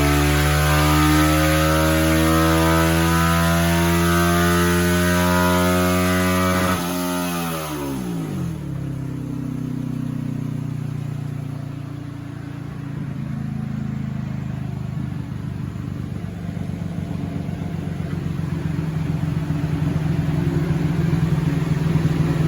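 Honda Grom's single-cylinder four-stroke engine with an aftermarket Hotlapp exhaust, running hard at high rpm in 4th gear under load on a chassis dyno. About seven seconds in the throttle is closed and the revs fall quickly to a low, uneven running note that grows louder near the end.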